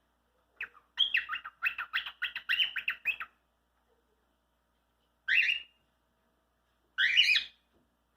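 Cockatiel chattering: a quick run of high chirped syllables lasting about two seconds, then two short separate calls a couple of seconds apart.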